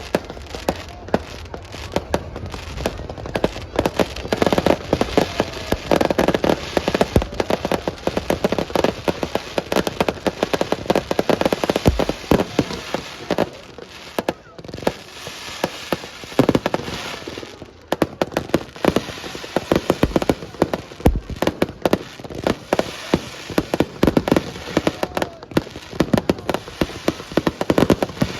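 Fireworks display: dense, rapid crackling and popping throughout, with a few deeper booms.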